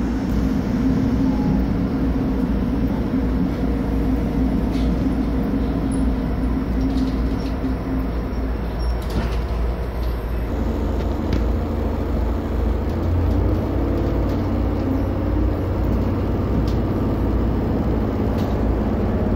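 Cabin running noise of a JR Hokkaido H100 diesel-electric railcar: a steady engine hum over the rumble of wheels on rail, with a few faint clicks. About halfway through the engine note changes, and near the end a whine starts rising in pitch.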